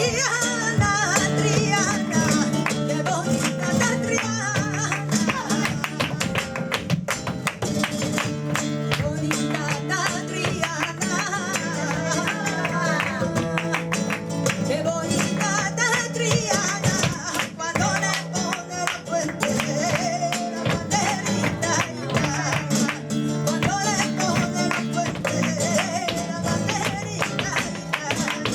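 Live flamenco tangos: flamenco guitar playing with a singer's cante, and sharp percussive strikes throughout.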